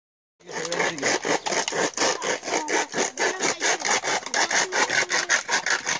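Hand sawing: fast, even back-and-forth saw strokes starting about half a second in.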